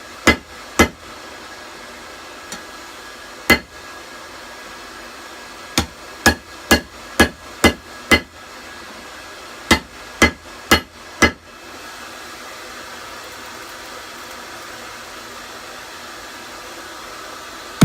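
Hand hammer striking rebar on an anvil: sharp ringing blows in short runs of a few, about two a second, stopping after about eleven seconds. A steady hiss from the forge's hairdryer blower runs underneath.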